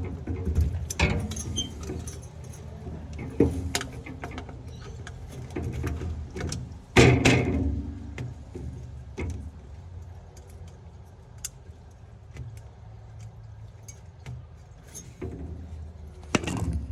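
Clicks, clinks and knocks of tools and metal parts being handled during a fridge repair, with a loud clatter about seven seconds in and another near the end, over a low steady hum.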